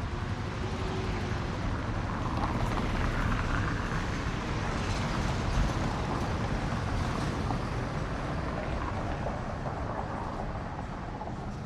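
Street traffic: a steady noise of passing motor vehicles, swelling as a vehicle goes by close over a few seconds near the middle, then easing off.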